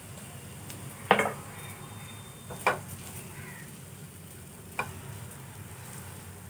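Diced onions and green peppers sizzling faintly in a nonstick frying pan as a silicone spatula stirs them, with three sharp knocks about one, two and a half, and five seconds in, the first the loudest.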